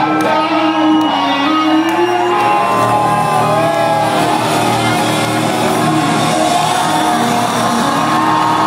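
Live rock band playing loudly in a large hall, with sustained and bending electric guitar notes over the band, and the crowd shouting and whooping.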